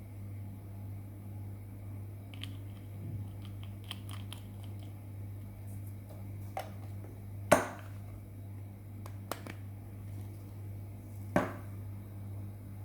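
A few sharp clicks and knocks from handling objects, the loudest about halfway through and another near the end, over a steady low electrical hum.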